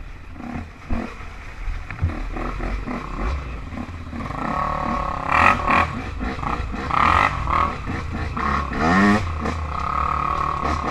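Off-road quad and dirt-bike engines running, revved several times from about four seconds in, the pitch climbing and dropping with each rev.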